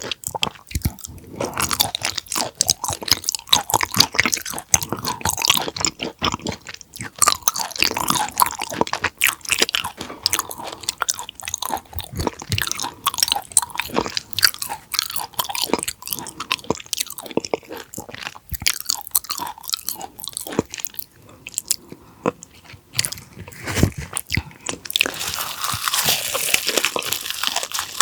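Close-miked chewing and biting of raw conger eel sashimi: a steady run of wet crunches and crackles with no talking.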